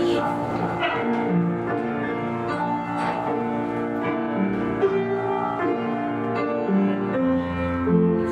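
Piano accompaniment for a dance class at the barre: a steady, flowing instrumental melody with held chords.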